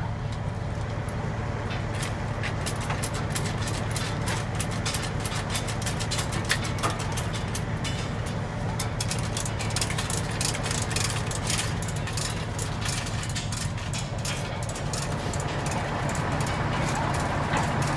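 Engine running steadily with a low hum, and irregular sharp clicks starting about two seconds in.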